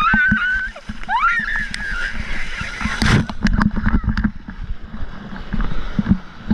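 Wind rumbling on the microphone over splashing water, with scattered knocks and a louder burst about three seconds in. A person's voice calls out in rising cries during the first two seconds.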